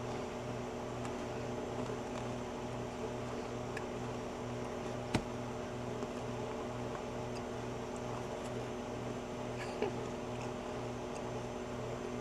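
Harvest Right home freeze dryer running with a steady hum, one low tone in it pulsing evenly about twice a second. A sharp click about five seconds in and a softer one near the end.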